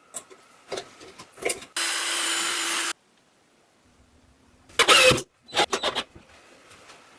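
Workshop sounds of wood being worked: a few sharp knocks, then about a second of a power tool cutting wood that starts and stops abruptly, then two bursts of clattering knocks.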